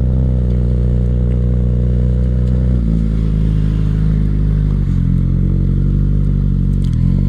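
Suzuki GSX-S1000's inline-four running through a full Dominator exhaust with no catalytic converters, while the bike is ridden at low speed. The engine note dips briefly and picks up again three times: about three seconds in, about five seconds in, and near the end.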